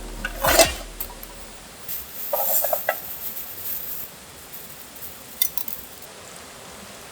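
Metal cooking utensils and cookware clinking and knocking, with a short scraping rattle around two and a half seconds in.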